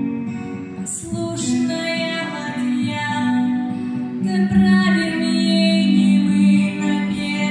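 A woman singing a slow song in Russian with acoustic guitar accompaniment, holding long notes.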